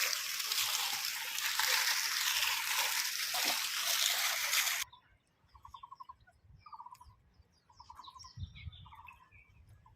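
Fountain water splashing steadily, cutting off abruptly about five seconds in. Then, much quieter, birds calling: short trilled notes repeated about once a second, with higher chirps between them.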